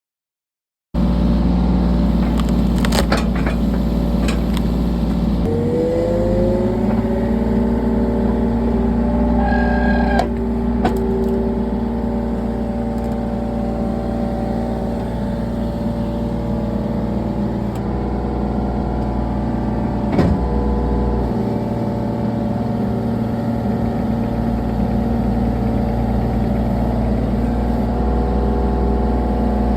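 Excavator's diesel engine running steadily, revving up about five seconds in, with a few short knocks.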